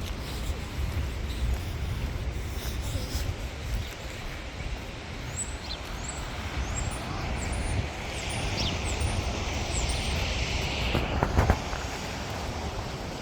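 Outdoor ambience with a steady low rumble, and a bird chirping a quick run of short high notes from about five to ten seconds in. A brief hiss swells just before a single sharp knock about eleven seconds in.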